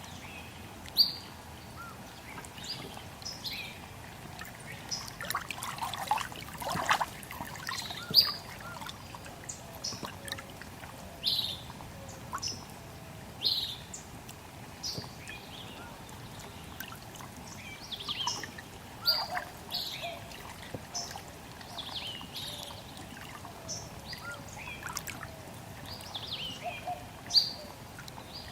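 Small songbirds chirping, short sharp calls that sweep downward, one every second or two, over the steady sound of trickling water.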